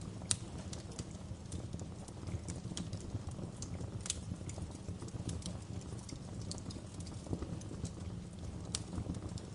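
Wood fire burning in a fireplace: a steady low rumble of flames with irregular sharp crackles and pops, the loudest pops just after the start, about four seconds in and near the end.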